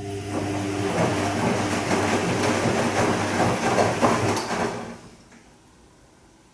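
Bosch Serie 2 Vario Perfect washing machine on its Silk program, the motor turning the drum: a noisy churning over a steady motor hum for about five seconds, then the drum stops.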